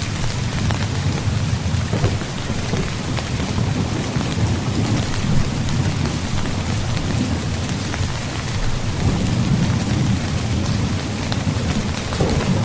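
Steady rain falling on a tent, many small drop ticks over a constant low rumble that swells slightly in the second half.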